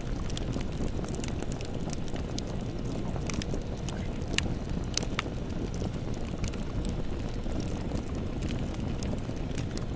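Campfire burning: a steady low rush of flame with frequent sharp crackles and pops from the burning wood.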